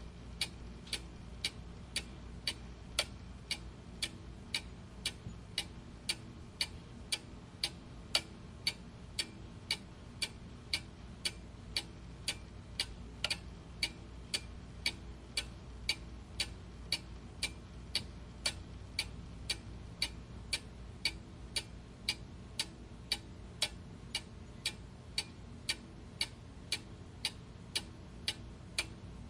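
Clock ticking steadily, a little under two even ticks a second, over a faint steady low hum.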